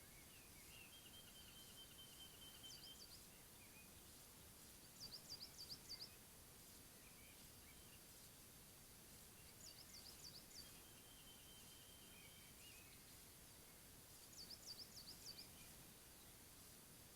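Faint birdsong over steady hiss: a bird repeats a short phrase every few seconds, a held high whistle followed by a quick run of high chirping notes.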